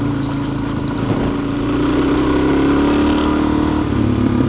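Dual-sport motorcycle engine running steadily while being ridden, picking up a little about a second and a half in and changing note near the end.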